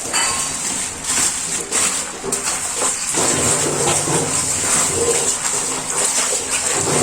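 Water running and splashing as aquarium stones are rinsed by hand to wash the dirt off them.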